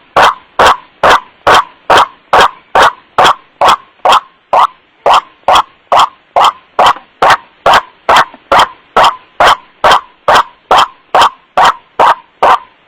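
White-breasted waterhen (kuruak) 'wak' call played as a bird-luring recording: one short note repeated evenly about twice a second. It is boosted until it clips.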